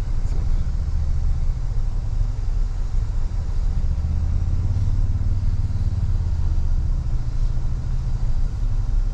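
Toyota Tundra pickup driving slowly on a dirt trail: a steady low engine and drivetrain rumble that swells a little about halfway through.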